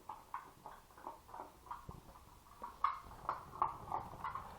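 Jack Russell terrier making soft, quick, rhythmic mouth sounds, about three a second.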